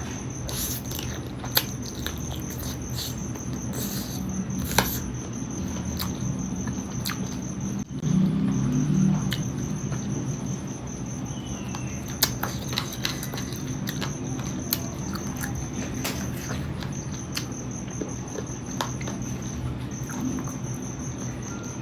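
Close-up eating sounds of chewing and sucking on curried chicken feet, with scattered sharp clicks and smacks. Behind them a steady high-pitched cricket trill runs on, breaking off briefly a few times.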